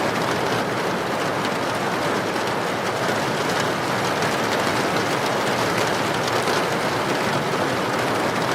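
Heavy rain pouring in a steady, even hiss, with wind.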